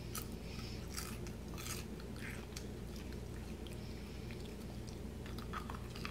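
A person chewing a Pringles potato crisp, with soft, irregular crunches that are clearest in the first couple of seconds and then fade into quieter chewing.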